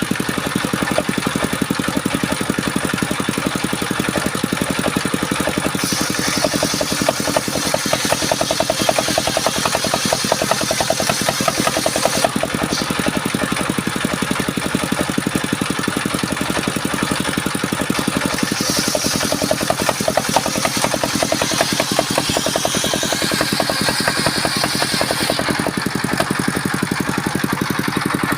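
Engine of a wood-cutting saw rig running steadily at an even speed, with a fast regular beat and no clear change in load.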